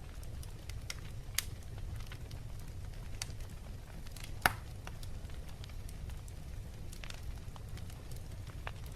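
Fireplace fire crackling over a steady low rumble, with scattered sharp pops; the loudest pop comes about halfway through.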